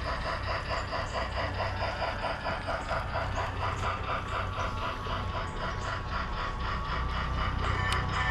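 Lionel model train locomotive running slowly around the track: a steady motor hum under an even rhythmic chuffing clatter of about three beats a second.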